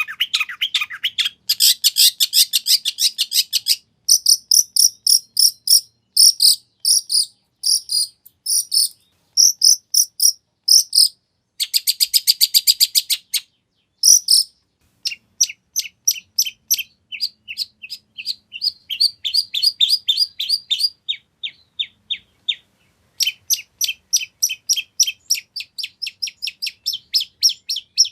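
Long-tailed shrike singing a loud song full of mimicked phrases: fast runs of short, sharp, high repeated notes, broken by a few short pauses.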